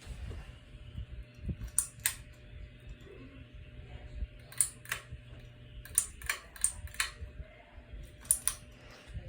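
Ceiling fan running with a steady low hum, with sharp clicks, mostly in pairs, every second or two.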